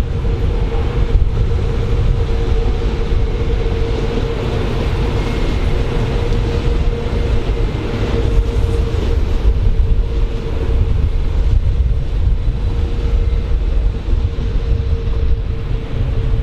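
A train running through a station, with a steady deep rumble and a steady mid-pitched whine over it.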